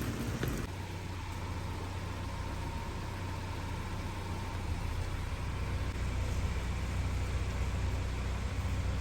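Kia K5 (DL3) idling, heard from inside the cabin as a steady low hum with a faint steady tone above it. A noisier sound with clicks stops abruptly under a second in.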